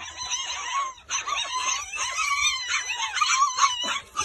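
Puppies squealing and whining, many short high-pitched squeaks overlapping at once, stopping just before the end.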